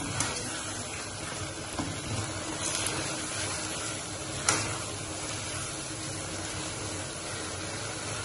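Grated carrots frying in ghee in a kadai, sizzling steadily, while a spatula stirs and scrapes through them, knocking against the pan a few times, loudest about four and a half seconds in. The milk has cooked off and the carrots are at the bhunai stage, being roasted in the ghee.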